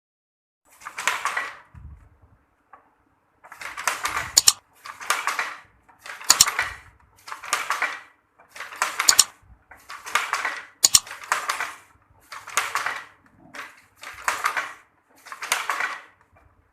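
Traditional hand-operated weaving loom working: one stroke, a short pause, then a steady run of swishing, clattering strokes about once a second, several of them with a sharp clack.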